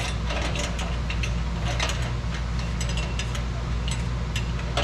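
Irregular metallic clicks and clinks from hand tools as an exhaust pipe clamp is tightened, over a steady low hum.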